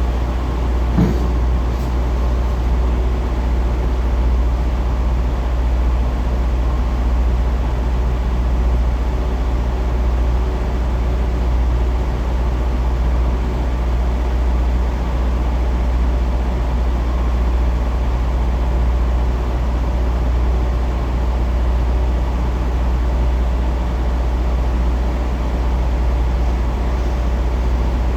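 Semi-truck diesel engine running steadily at low revs, a constant deep rumble, with one short knock about a second in.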